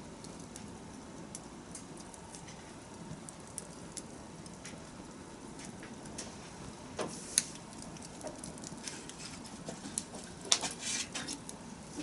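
Wood campfire burning: scattered crackles and pops over a low, steady rustle of flame. A sharper pop comes a little past halfway, and a quick cluster of loud crackles near the end.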